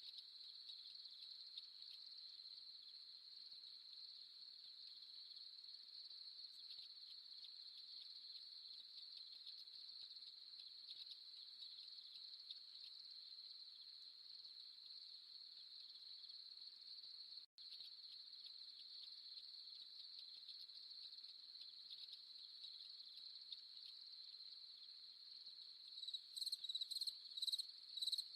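Night chorus of crickets: a faint, steady high-pitched trill, with a brief break about two-thirds of the way through. Near the end a louder cricket chirps in quick pulses, about two or three a second.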